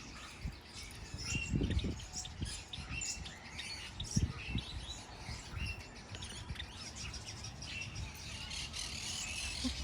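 Many birds in an aviary chirping and twittering in short, overlapping calls, with a few low bumps of handling noise about one and a half and four seconds in.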